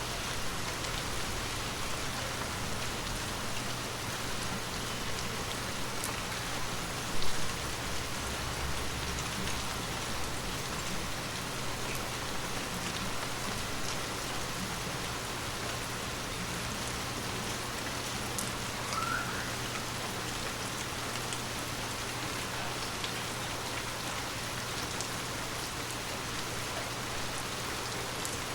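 Water droplets pattering steadily on glass, with scattered single drip ticks. One drop about seven seconds in lands louder than the rest.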